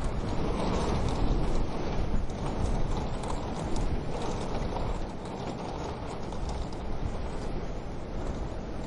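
Wood fire crackling in a wood-burning stove: a dense, steady stream of small pops and snaps over a low rumble.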